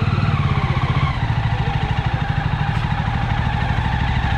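Jawa motorcycle engine running, heard from a camera mounted on the bike, its pitch falling about a second in and then holding steady.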